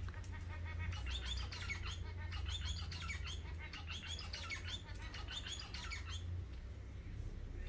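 Small pet birds chirping in quick, repeated high twittering notes that stop about six seconds in, over a low steady hum.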